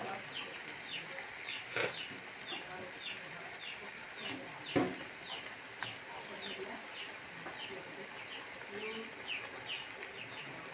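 Malpua frying in hot oil in a pan, a steady sizzle, with a spatula knocking against the pan twice, about two and five seconds in. Over it a bird chirps on and on, short falling chirps about two a second.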